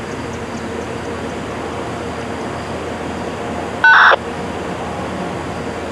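Steady background hum and hiss, broken about four seconds in by a short, loud burst of electronic tones from a railroad radio scanner, like a data or squelch-tone burst.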